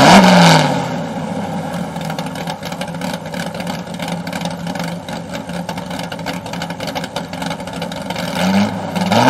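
Car engine revving: a sudden sharp rev at the start, a steady run, then revving again near the end.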